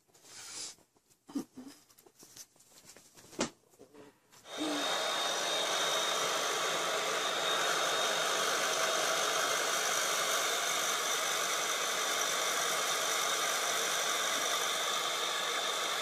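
Handheld hair dryer blowing steadily: a rush of air with a thin high whine in it, starting abruptly about four and a half seconds in. Before it there are only a few faint clicks and knocks.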